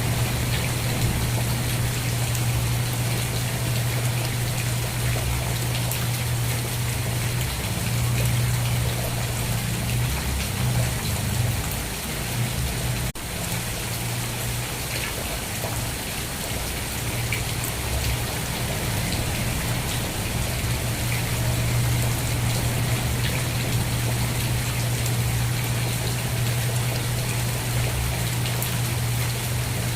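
Steady rain: an even hiss of falling rain and drops hitting a surface, with a deep low rumble underneath that thins out now and then. About thirteen seconds in, the sound drops out for a split second.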